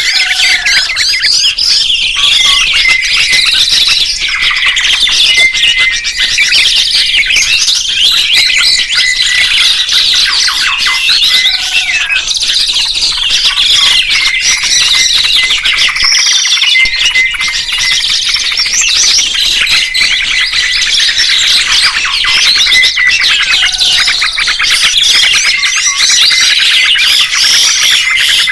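Songbirds singing in a dense, unbroken stream of high-pitched chirps, trills and whistles, with several phrases overlapping.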